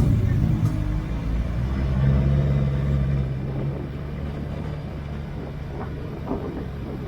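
Motorcycle engine running under way: its note swells and rises slightly about two seconds in, then holds at a steady cruise.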